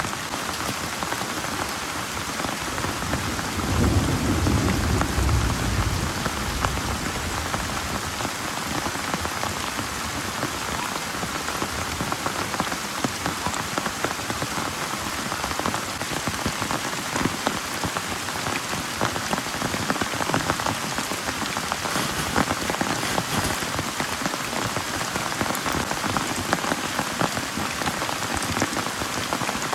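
Heavy rain pouring steadily, with a low roll of thunder about four seconds in that lasts a few seconds.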